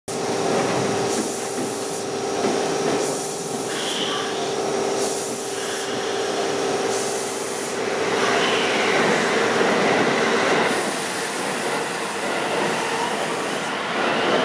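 Meitetsu 2200-series electric train standing at the platform with its equipment humming steadily, then starting to pull away about halfway through, the whine of its traction motors rising in pitch as it gathers speed.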